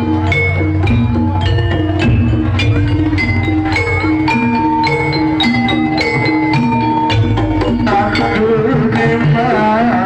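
Javanese jaranan music: drums under a quick, steady run of struck, ringing pitched percussion notes, with a wavering melody line joining about eight seconds in.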